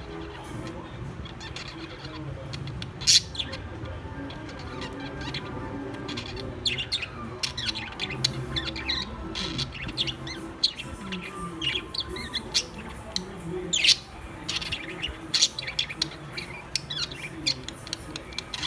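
Birds chirping and calling in many short high chirps, busier from about six seconds in, with two sharp louder sounds about three seconds in and near fourteen seconds, over a steady low background hum.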